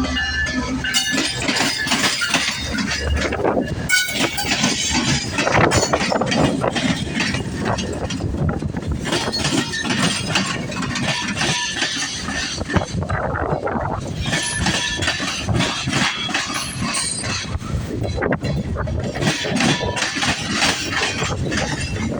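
Freight train's cars rolling past close by: a continuous rumble of steel wheels on rail with rapid metallic clicking and clanking, and high wheel squeals now and then. A diesel locomotive's low drone is heard in the first few seconds.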